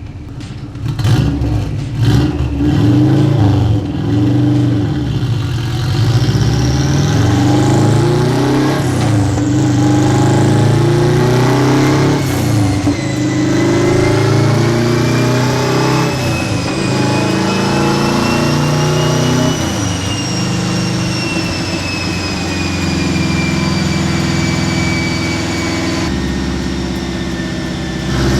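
Turbocharged Subaru EJ-series flat-four, a 2.1-litre stroker in a Saker race car, running hard on a chassis dyno, its revs climbing and dropping again several times. A high whine rises and falls above the engine note. There are a few sharp cracks in the first couple of seconds.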